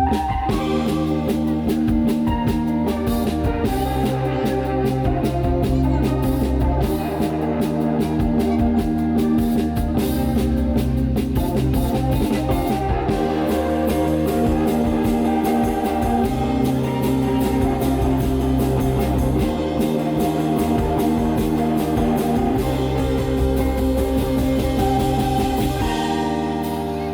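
Live rock band playing an instrumental passage with drum kit and guitar over sustained chords. The drums drop out about a second before the end, leaving the held chords ringing.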